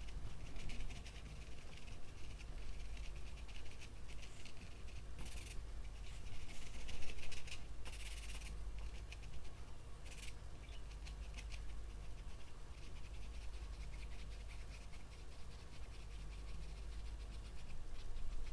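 Paintbrush strokes scratching and rubbing on the painting surface, with a few louder, longer strokes about five, eight and ten seconds in, over a steady low hum.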